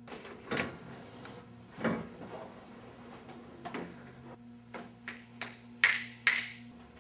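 A series of separate knocks and taps at irregular intervals, the last two close together and loudest, over a faint steady low hum.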